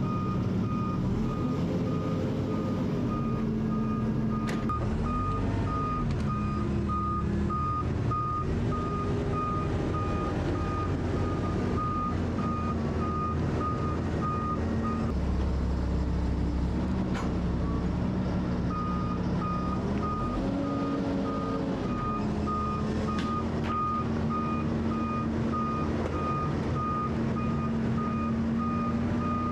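Lorry reversing alarm beeping at an even rate over the diesel engine as the truck manoeuvres in reverse, the engine pitch rising and falling. The beeping stops about halfway through and starts again a few seconds later.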